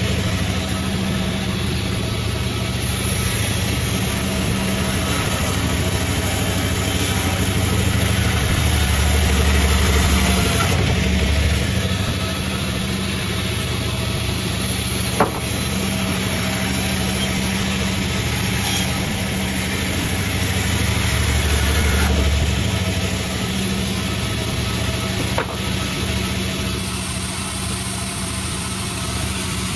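A 36-blade sawmill running with a steady low machine drone that swells louder a few times, with two sharp clicks, one about halfway through and one near the end.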